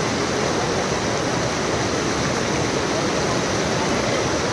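Steady, loud rush of falling water from a waterfall or fast stream.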